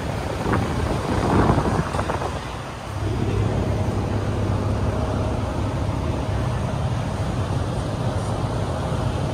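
A car engine nearby. A louder, rushing surge comes about a second in and fades, then from about three seconds in the engine runs at a steady low hum.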